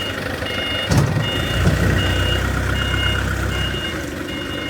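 Heavy machine's backup/travel alarm beeping steadily, about one beep every three-quarters of a second, over its engine running. A sharp clank about a second in, after which the engine runs louder for a couple of seconds.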